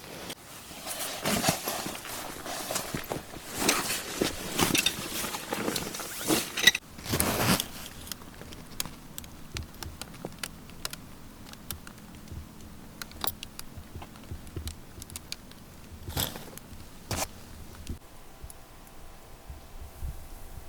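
Rustling and clinking of gear being handled for several seconds, then scattered light clicks and ticks.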